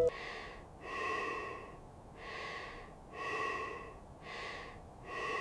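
A person breathing heavily in a slow, even rhythm, one long breath about every second.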